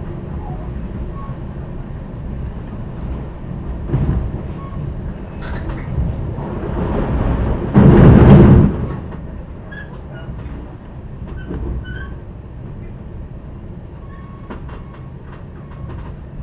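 Metra commuter train running, heard from inside a passenger car: a steady low rumble of wheels on rail with scattered clicks, swelling into a loud rushing surge lasting about a second around the middle before settling back to a quieter rumble.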